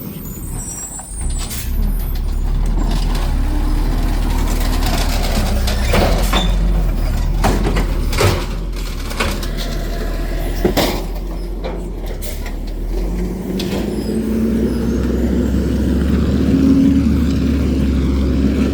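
Garbage truck's diesel engine running steadily, with several sharp clanks and knocks in the middle. Near the end the engine pitch rises as it speeds up.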